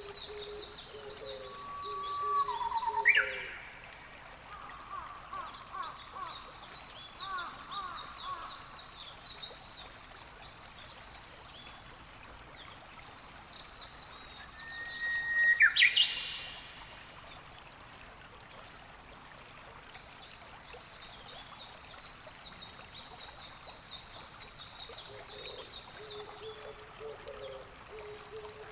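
Wild birds on the coast. A songbird sings repeated high, rapid trilled phrases a few seconds apart, and another bird gives two louder single calls, one about three seconds in and one about halfway through, each a short flat note ending in a sharp upward sweep.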